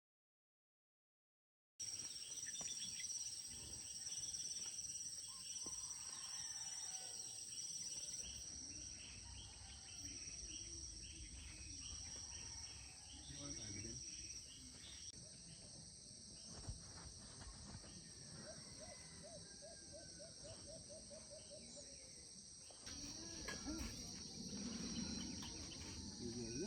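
Outdoor nature ambience of insects droning steadily in high, shrill tones, with scattered bird chirps and a brief trill of quick repeated notes about two-thirds of the way through. It starts after about two seconds of silence.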